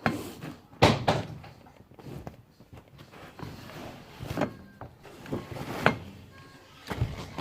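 Several sharp knocks and bumps, with smaller handling noises between them; the loudest knock comes about a second in.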